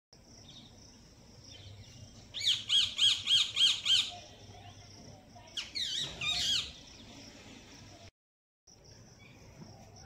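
A bird calling outside: a quick run of about six sharp, high repeated notes, then a shorter run of three or four notes a couple of seconds later.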